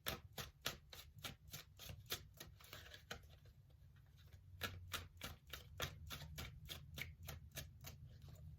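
Tarot deck being shuffled by hand: a quiet, rapid run of soft card clicks, about four a second, with a short lull midway.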